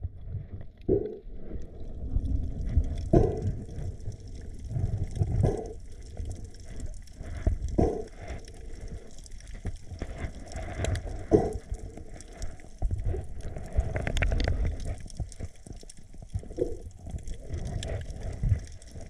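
Muffled water sloshing and gurgling around the camera, with short low surges every second or two.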